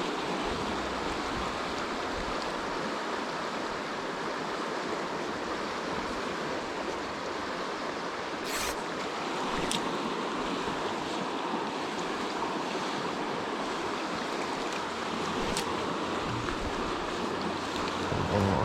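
Steady rush of flowing stream water, with a few faint short clicks around the middle.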